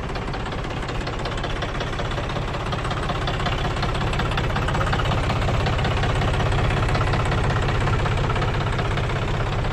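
John Deere 5104 tractor's diesel engine running steadily with a fast, even knock, getting a little louder a few seconds in.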